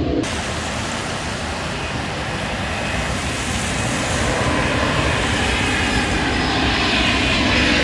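Jet airliner on approach passing overhead: a steady engine roar with a faint whine, growing slightly louder over the seconds.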